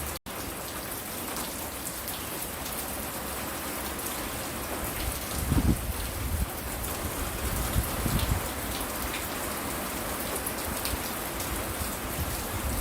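Steady rain falling, an even hiss of drops, cutting out for an instant just after the start. Low rumbles swell up twice, around the middle.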